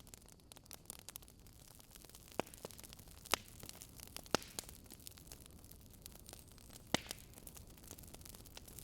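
Wood campfire crackling: a dense run of small snaps over a soft steady hiss, with a few louder pops, the sharpest about three seconds in and another near seven seconds.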